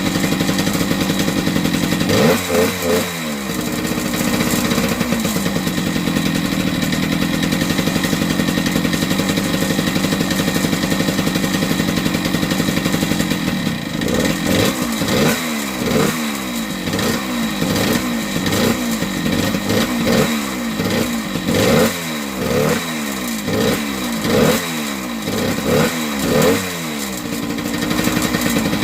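1978 Yamaha DT100's small single-cylinder two-stroke engine running. It holds steady with one quick rev about two seconds in, then from about halfway through is revved up and down repeatedly, roughly once a second, before settling back to a steady run near the end.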